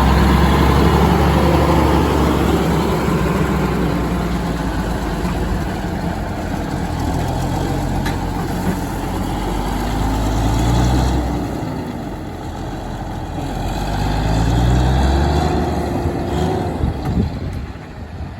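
Truck engines running and moving past, the sound swelling and fading, loudest at the start and again about eleven and fifteen seconds in.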